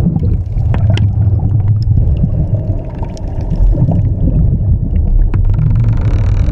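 A steady, loud, deep rumble with faint scattered clicks over it.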